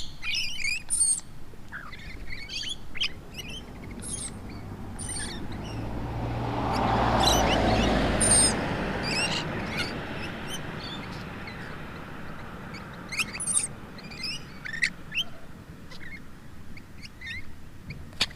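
Lorikeets calling close by, with short high chirps and squeaks scattered throughout. A broad swell of noise rises and fades about halfway through.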